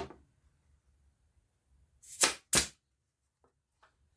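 Pin nailer driving 3/4-inch pin nails into wood: two sharp shots about half a second apart, around two seconds in.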